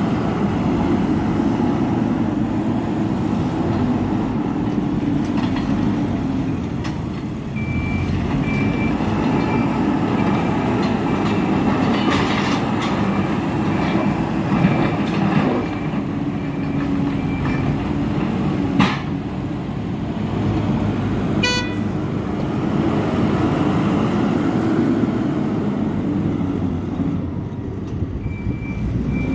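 Hidromek 102B backhoe loader's diesel engine working steadily while levelling soil, its reversing alarm beeping in an even series in the middle of the stretch and again near the end. A sharp knock sounds once part way through.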